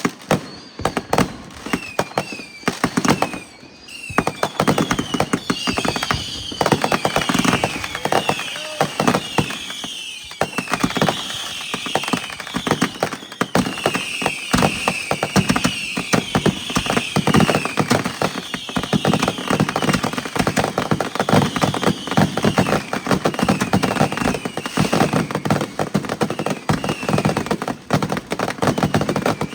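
Fireworks crackling and popping in a dense, rapid run of sharp cracks, with many short, falling high-pitched whistles from about two seconds in.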